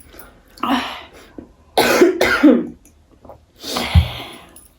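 A person coughing, three harsh coughs about a second apart, set off by eating very hot black chilli.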